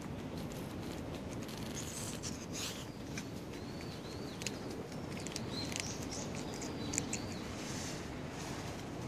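Outdoor ambience: a steady low rumble, with a small bird chirping several times in the middle and a few sharp ticks.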